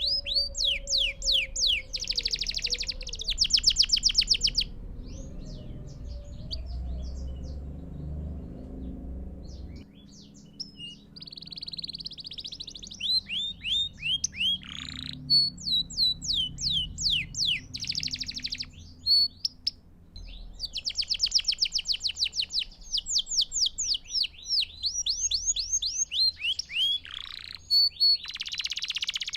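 Canary singing: phrases of fast trills made of rapidly repeated sweeping notes and rolls, broken by short pauses and one longer silence of several seconds early on. A faint low rumble runs underneath.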